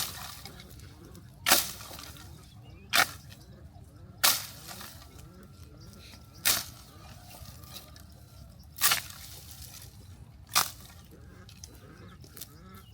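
A series of sharp knocks, seven in all, at uneven gaps of one and a half to two and a half seconds, each dying away quickly.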